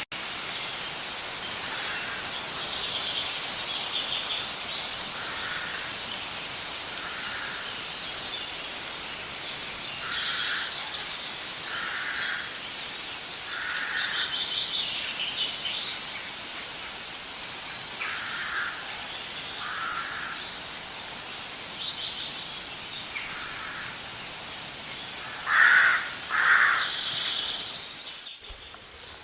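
Birds calling over a steady outdoor hiss: a short call repeated every second or two, with higher chattering song in between, and two louder calls close together near the end before the sound drops off suddenly.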